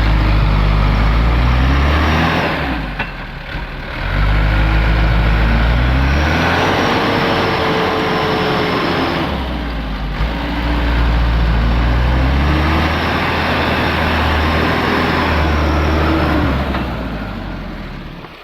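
Mitsubishi Canter light truck's diesel engine revving hard under load as the truck strains on a steep, broken slope. It eases off briefly about three seconds in and again near ten seconds, then fades near the end.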